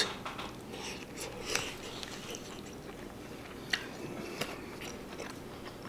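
Faint chewing of a mouthful of rice and meat, with a few light clicks of a metal fork against the bowl.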